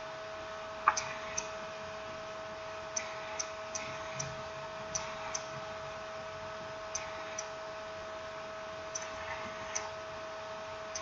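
Small, irregular clicks and taps, the sharpest about a second in, from tools and small parts being handled while a smartphone is reassembled. They sit over a steady, high electrical hum.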